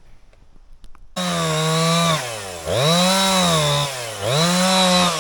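Two-stroke chainsaw running at high revs, coming in abruptly about a second in. Its pitch sags and then recovers three times as it bogs down under load, cutting into a log.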